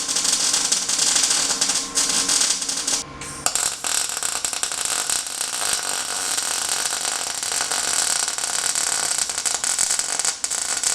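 Welding on a steel exhaust pipe: a steady, dense crackle from the welding arc, broken off briefly about three seconds in and then resumed.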